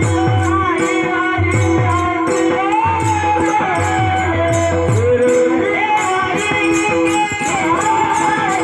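Marathi kirtan devotional music: a sung melody over a steady held drone, with a repeating drum beat and jingling cymbal strokes keeping time.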